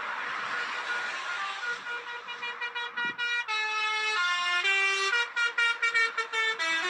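Truck's musical air horn playing a tune of stepped notes, which come quicker in the second half, with a steady rushing noise at the start.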